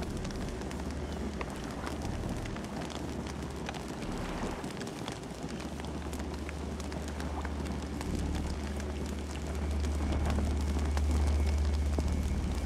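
Campfire burning: scattered crackles and pops over a steady low rumble of flames, the rumble swelling a little in the second half.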